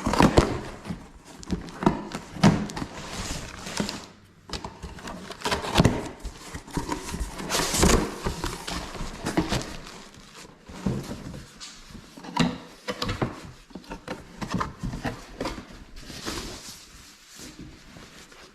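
Irregular knocks, thuds and rustling of objects being handled, a few sharp knocks standing out, tapering off near the end.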